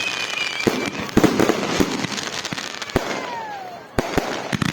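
Fireworks and firecrackers going off: a run of sharp bangs over a dense crackling, with a couple of falling whistles.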